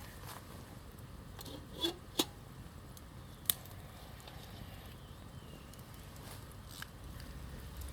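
Campfire crackling: a few sharp pops and snaps, the loudest around two seconds in and again at about three and a half seconds, over a low steady rumble.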